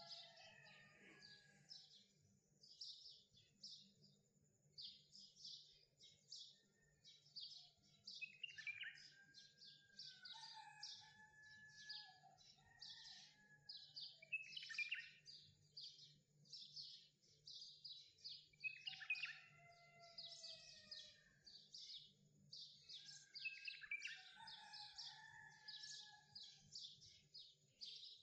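Faint birdsong: a dense run of quick high chirps, with a lower whistled phrase that slides downward about every five seconds, over a faint steady low hum.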